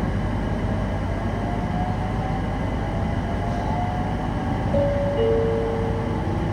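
Electric local train running on the line, a steady rumble of wheels on rails with a faint rising whine. Near the end come two held tones, the second lower than the first.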